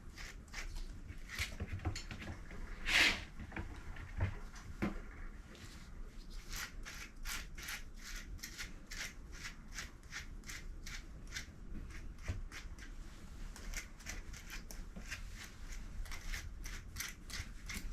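Quick, regular strokes of a grooming brush through a puppy's dry, blow-dried coat, about two to three a second, with one louder rustle about three seconds in.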